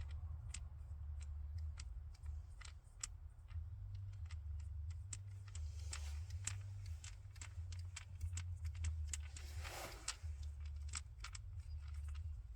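Small Torx screws being backed out of a throttle-body fuel pressure regulator cover: irregular light metallic clicks and ticks from the driver and screws, with a short scrape near the end, over a steady low rumble.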